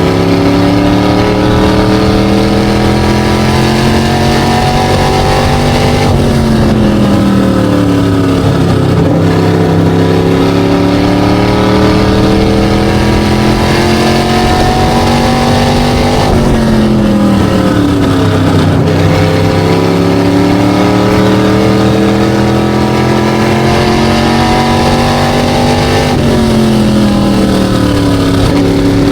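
SK Light modified race car engine running hard on an oval, its pitch climbing steadily for several seconds and then falling away over a couple of seconds, three times about ten seconds apart: on the throttle down each straight and lifting off into each turn.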